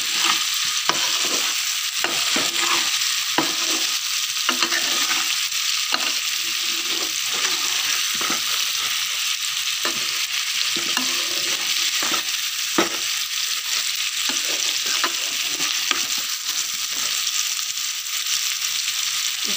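Boiled amla (Indian gooseberries) sizzling in a hot pan while being stirred, a steady frying hiss with irregular scrapes and knocks of the spoon against the pan.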